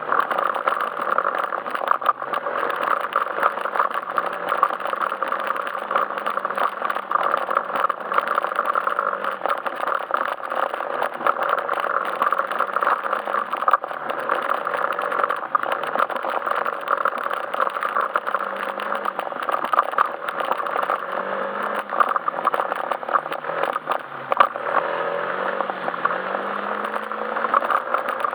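Yamaha Majesty S scooter's single-cylinder engine running under way, its pitch drifting up and down with the throttle, over a constant rush of road and wind noise with many small rattles and clicks from the bike on the forest road.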